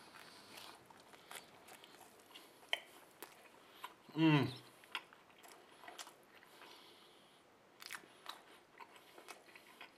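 A person chewing a mouthful of burger with bratwurst and a soft bun, close up, with small wet clicks and smacks of the mouth. About four seconds in, a short hum falls in pitch.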